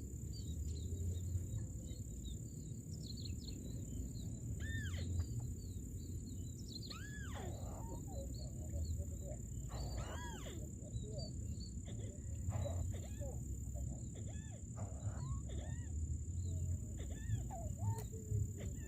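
Scattered bird calls, short notes that rise and fall in pitch, over a steady high-pitched whine and a continuous low rumble.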